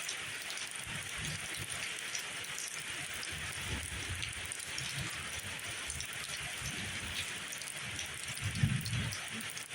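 Steady rain hiss, with irregular low dull thuds of heavy drops underneath and a louder thud near the end.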